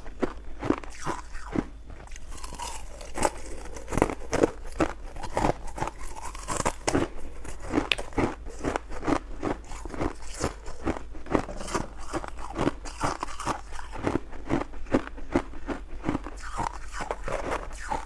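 Ice being bitten and chewed: a continuous run of sharp, brittle crunches, about two a second.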